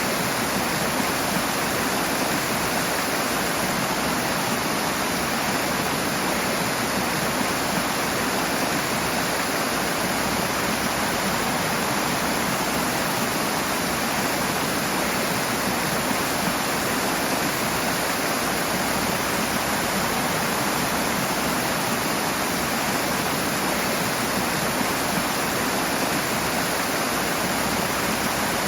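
Rushing water, a strong stream or cascade, making a steady, even rush with no let-up.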